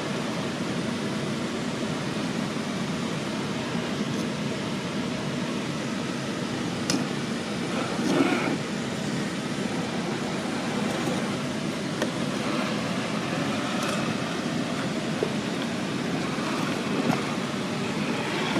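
Traxxas TRX4 Bronco RC crawler driving, its electric motor and drivetrain running with a steady whir, with a few short knocks and clicks as it works over rough ground.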